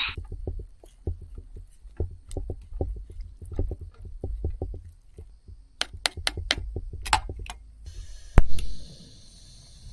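Small irregular clicks, crackles and soft knocks of hand work with food packaging and cookware: curry roux being broken out of its plastic tray into the pot. There is one sharper knock about eight seconds in, and a faint steady hiss starts just before it.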